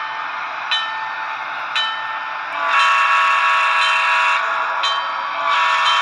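Broadway Limited SD7 model's Paragon 3 sound decoder playing a diesel locomotive bell that rings about once a second, then the multi-note air horn sounding one long blast a little before halfway in and starting again near the end, over a steady engine sound.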